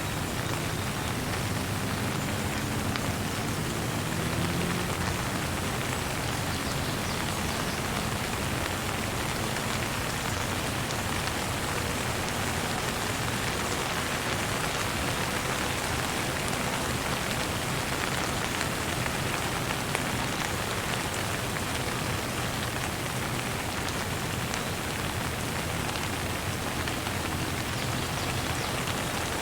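Steady rain falling on surfaces, a dense, even patter of drops.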